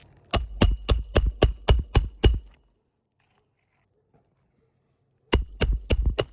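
Roofing hammer driving roofing nails through a new 3-tab asphalt shingle: about eight quick strikes, each with a metallic ring, then after a pause of about three seconds another run of four or five strikes near the end.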